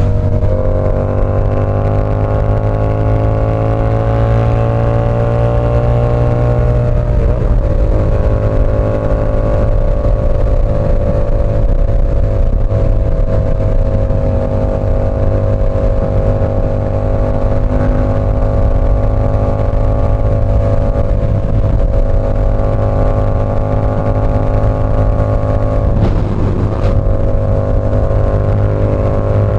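Yamaha R7's 689 cc parallel-twin engine breathing through an SC-Project CR-T exhaust while riding. The engine pitch climbs steadily for about seven seconds, dips, then holds nearly steady at cruising revs.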